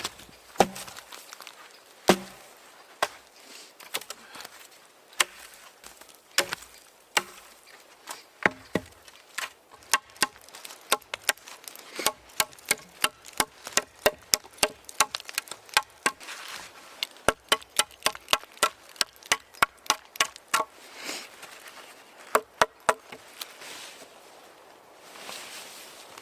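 Chopping: a series of sharp knocks from a blade striking a surface. They come a few seconds apart at first, then in a quick run of about three to four a second for roughly ten seconds.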